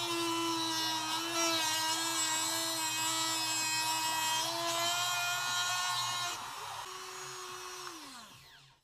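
Cutting-wheel power tool running at speed with a steady high whine, cutting out rusted sheet metal. Near the end it is let off and the whine falls away as the wheel spins down.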